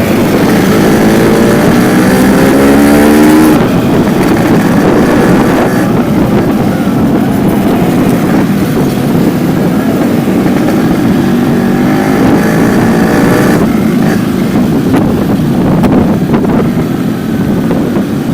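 Yamaha RX-King's two-stroke single-cylinder engine revving through its stock-silencer exhaust. The pitch climbs over the first few seconds and then drops away, and the engine runs on loud and steady with another brief rise about two-thirds of the way in.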